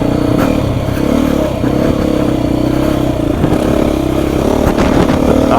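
Beta 350 RR single-cylinder four-stroke dirt bike engine running under load, the throttle easing off and picking up again a few times, with some short knocks and clatter from the bike.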